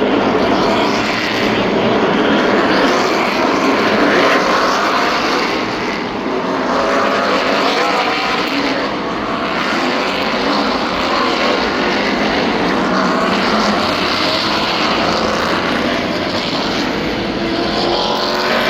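NASCAR Craftsman Truck Series race trucks' V8 engines running at racing speed as the field goes by, several engines overlapping, with their pitch sliding up and down.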